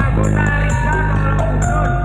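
Loud music with strong bass and a steady beat, blasting from a large sound-system rig in a sound-system battle.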